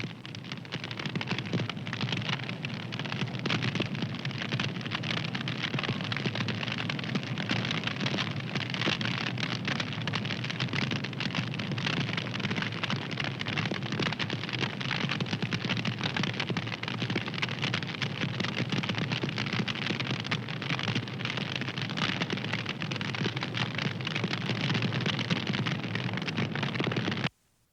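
Wood fire crackling steadily, a dense run of small snaps and pops over a soft rushing hiss. It drops out for a moment near the end.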